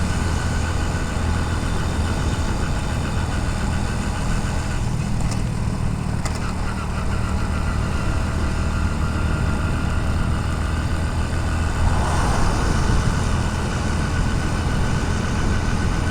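Motorcycle engine running steadily, heard through a helmet-mounted camera's waterproof case, under a hiss of wind and rain. A louder rushing sound comes in about twelve seconds in.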